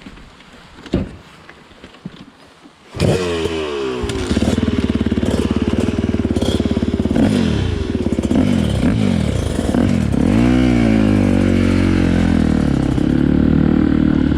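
Dirt bike engine revving, cutting in suddenly about three seconds in after a few faint knocks; its pitch rises and falls with the throttle, then runs steadier toward the end.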